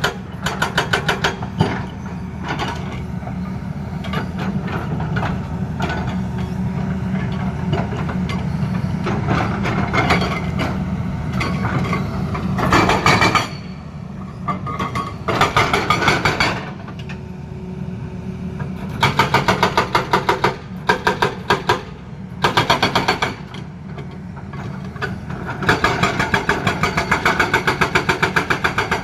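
Hydraulic rock breaker on a Tata Hitachi excavator hammering in repeated bursts of rapid blows, several a second, with the longest burst near the end. The excavator's engine runs steadily underneath between bursts.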